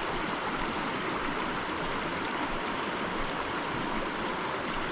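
Steady rush of a small mountain creek's water running over rocks, an even hiss-like wash with no breaks.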